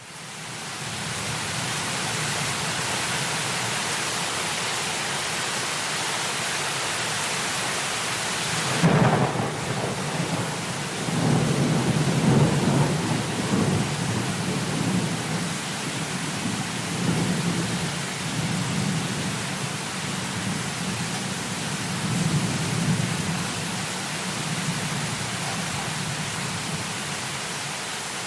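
Steady heavy rain with a sudden thunderclap about nine seconds in, followed by long rolling thunder rumbling that slowly dies away.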